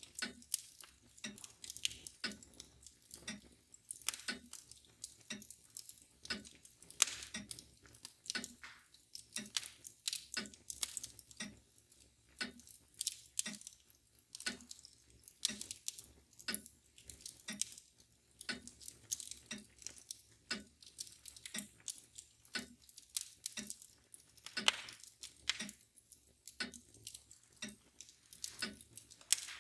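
Wood fire crackling, with many irregular sharp pops and snaps, over the steady ticking of a mantle clock.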